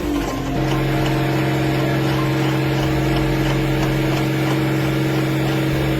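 Tractor engine running at a steady high speed, its pitch settling in the first half second and then holding one even tone for the rest.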